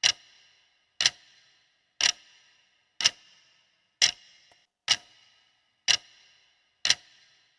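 Quiz countdown-timer sound effect: a sharp clock-like tick once a second, eight in all, each with a short ringing tail.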